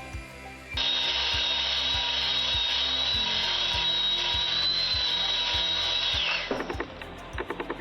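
Electric mixer motor running steadily with a high whine as it beats cake batter. It starts about a second in and winds down with a falling pitch near the end, over background music with a steady beat.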